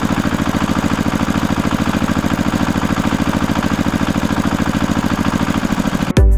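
Small engine idling with a steady, rapid putter, cut off abruptly near the end.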